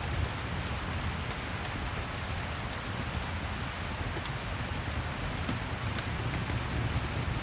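Steady rain ambience with a low rumble underneath, mixed with scattered faint crackles from a fireplace.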